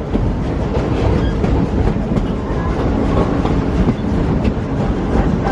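Passenger train rolling along the track, a steady low rumble with wheels clacking over the rail joints, heard from aboard a coach.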